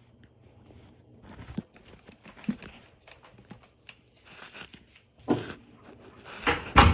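Objects being handled and set down: scattered light knocks, clicks and rustling, with a sharper knock about five seconds in and the loudest knock near the end.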